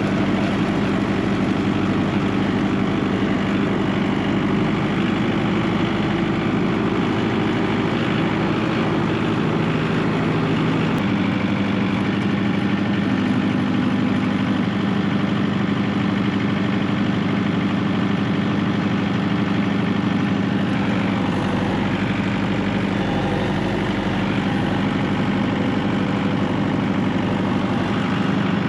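Tractor engine running steadily, its note shifting slightly about eleven seconds in.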